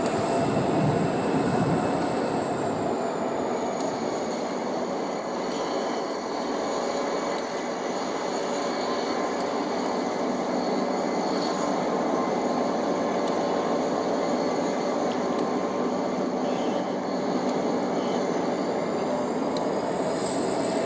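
Turbocharged EMD 645 diesel locomotives running as a slow-moving train, with a steady engine rumble under a thin high whine that drifts slowly up and down in pitch.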